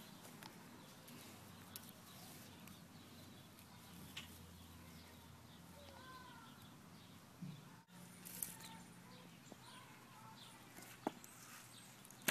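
Faint bird chirps and whistles, a few short calls scattered through, with occasional light clicks.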